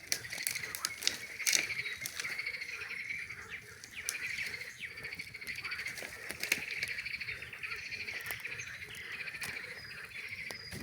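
A dense chorus of frogs calling continuously, with a campfire crackling and popping over it, the sharpest pops in the first couple of seconds.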